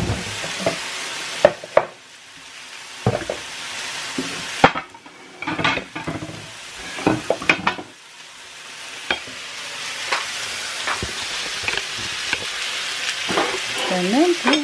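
Beef steaks sizzling on an electric grill plate, a steady hiss that thins out for a few seconds in the middle, with repeated sharp clicks and knocks of plates and utensils being handled.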